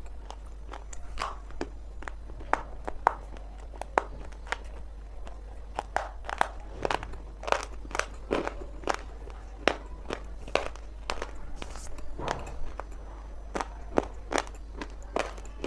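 Dry multani mitti (fuller's earth clay) crunching and cracking as it is bitten and chewed, close up, in irregular sharp cracks about twice a second.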